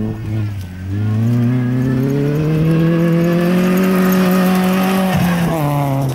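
SEAT Ibiza rally car's engine at high revs, accelerating toward and past on a gravel stage: the pitch climbs over the first second, holds steady, then falls about five seconds in as the car goes by.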